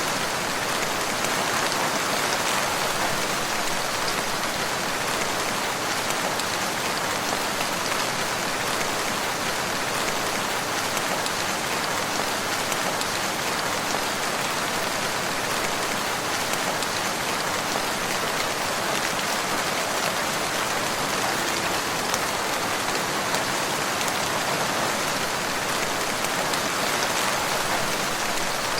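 Steady rain falling on surfaces, a dense even patter of many drops with no thunder.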